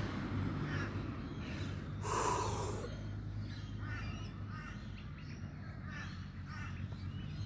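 Small birds calling in short chirps, with one louder, harsh sound about two seconds in.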